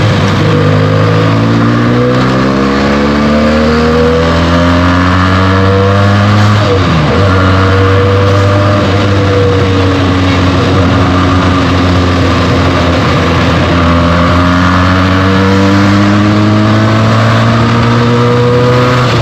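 Benelli TNT 300's parallel-twin engine through its stock exhaust, accelerating through the gears: the pitch climbs in long rises, dropping sharply at an upshift about a third of the way in and again at the end.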